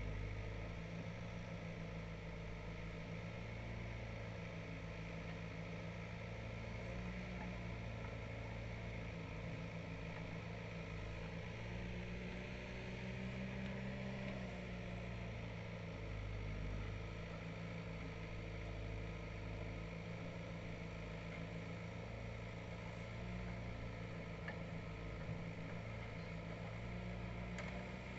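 Diesel engine of a heavy machine, a tractor or backhoe loader, running steadily at low revs, with small swells in level.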